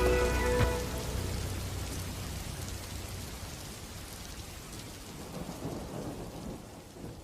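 Rain and thunder sound effect at the end of the song. The last held chord of the music dies away within the first second, leaving steady rain with a low rumble of thunder around the middle, fading down towards the end.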